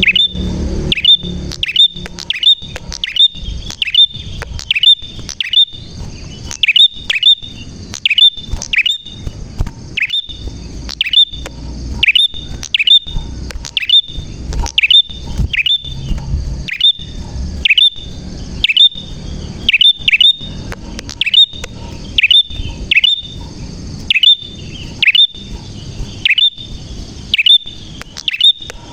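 Prinia (prenjak) calling over and over: loud, sharp chirps that drop quickly in pitch, roughly two a second, in an unbroken run.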